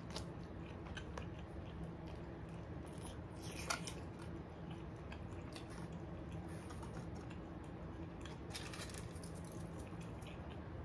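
Chewing and mouth sounds of someone eating pizza, with scattered small crackly clicks, one a little louder about four seconds in and a cluster near the end, over a faint steady hum.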